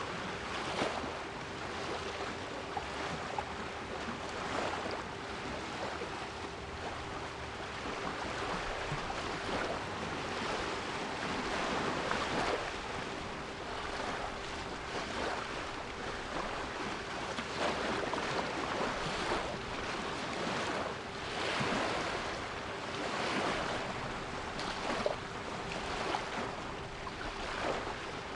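Sea waves washing in, swelling and easing every few seconds, with a steady 396 Hz pure tone held underneath.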